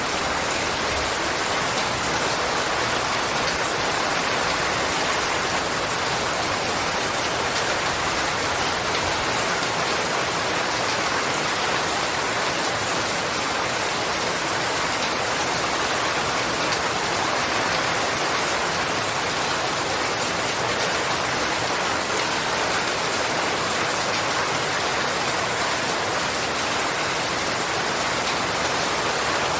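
Steady rainfall: a continuous, even hiss of rain falling and pattering on surfaces.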